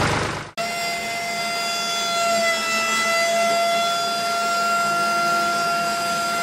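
A small electric motor running at a steady speed with a constant whine. It comes in abruptly about half a second in, when a louder, rougher engine-like noise cuts off.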